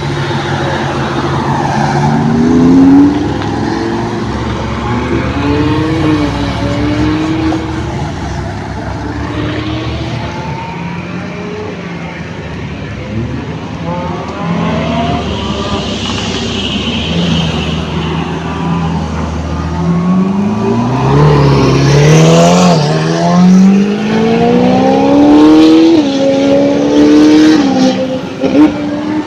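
Ferrari and Lamborghini supercar engines running and revving as the cars pull away. The pitch climbs in repeated rising sweeps, loudest in the second half.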